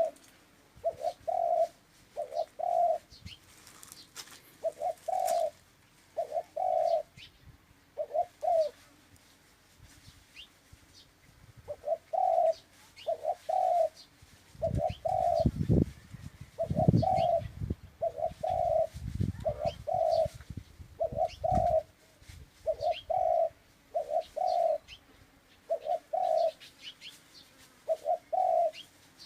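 Dove cooing: short, low coos repeated over and over, mostly in pairs, with short pauses between the pairs. A low rumble sounds in the middle.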